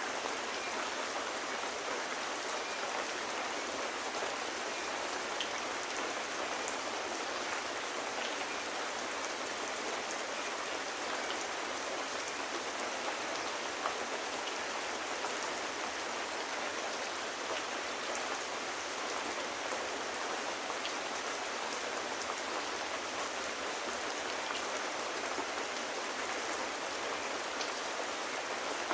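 Steady rain falling on a surface: an even hiss with scattered small ticks of individual drops.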